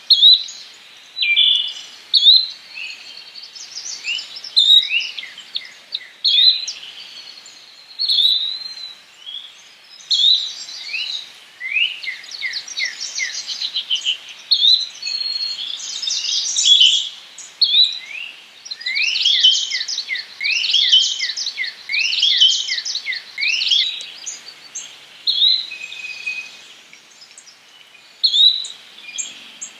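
Several songbirds singing and calling over one another: high-pitched chirps and fast runs of down-slurred notes, thickest in the middle of the stretch.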